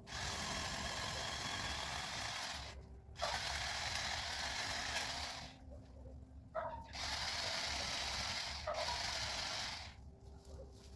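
Powered pole saw's chain running and cutting through a conifer limb in three bursts of two to three seconds each, with short pauses between, stopping about ten seconds in.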